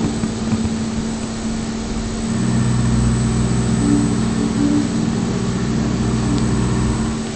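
DMU 65 milling machine running with a steady, tonal whine, with a heavier low drone joining about two seconds in and dropping away near the end.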